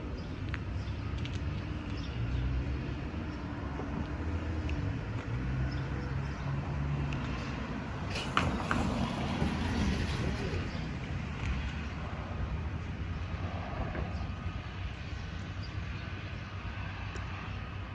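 Steady low engine rumble with a wavering drone in the first few seconds, and a few clicks and a brief rise in loudness about eight seconds in.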